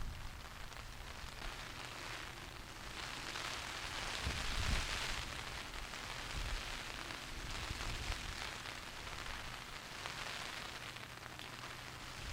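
Steady rain falling, swelling a little in the middle, with an uneven low rumble of wind underneath.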